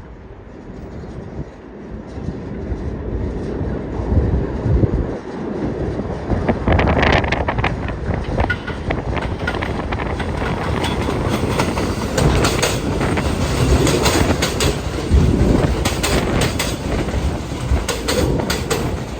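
New York City subway train on the BMT West End Line, rumbling louder as it comes in. From about six or seven seconds in, rapid clacking of wheels over rail joints runs through the rest.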